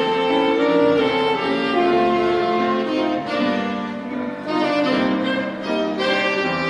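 Live instrumental duet: a violin playing a slow melody in long held notes, with a second instrument and accompaniment beneath it, briefly softer about four seconds in.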